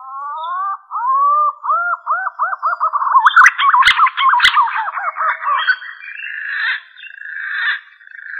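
Green pigeon (punai) call: a run of arched, whistled notes that get faster, then break into a higher warbling trill. Two sharp clicks sound about four seconds in.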